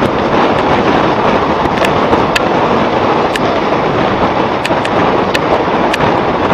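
Passenger train running at speed, heard from an open coach door: a steady rush of wind and rolling noise, with sharp clicks now and then from the wheels and track.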